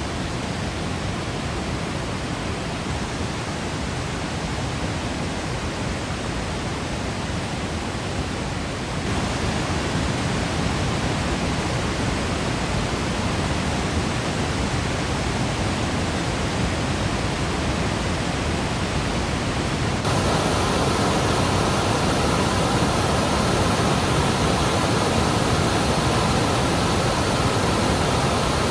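Yosemite waterfall: a steady, dense rush of falling water. It steps up a little louder about a third of the way in and again about two-thirds in.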